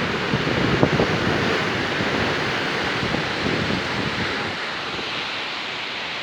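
Storm surf: rough sea waves breaking and washing on the shore, with strong wind buffeting the microphone. The low wind rumble eases about two-thirds of the way through.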